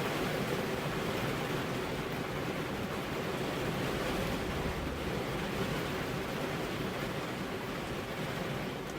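Heavy rain falling steadily, an even hiss with no thunder or single drops standing out.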